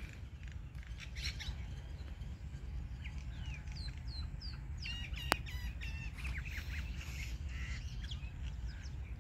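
Birds calling: scattered short chirps, then a cluster of repeated squawking calls about five seconds in, with one sharp click among them, over a steady low rumble.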